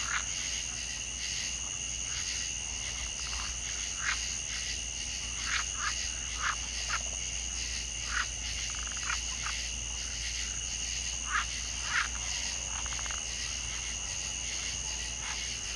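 Frogs giving short calls at irregular intervals, about a dozen in all and most of them in the middle of the stretch, over a steady high-pitched drone of insects at two pitches.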